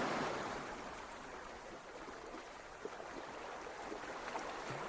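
Surf washing on a beach: a wave's wash fades away over the first couple of seconds, and the next one starts to build near the end.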